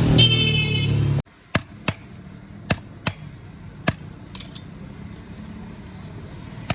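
Hammer striking metal: about five sharp, ringing blows at irregular intervals of half a second to a second, then a few lighter taps. Before them, street traffic noise with a high horn-like tone cuts off abruptly about a second in.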